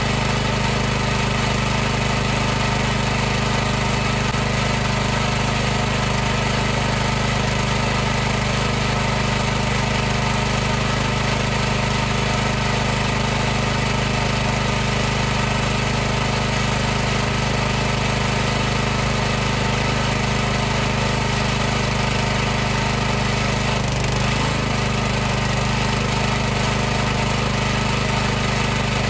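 High-pressure washer pump motor running steadily with a constant drone, with a slight wobble in pitch about 24 seconds in.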